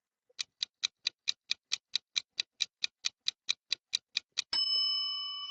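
Countdown timer sound effect: a run of even clock-like ticks, about four and a half a second for some four seconds, then a bright ding that rings on and fades, marking time up for the quiz prompt.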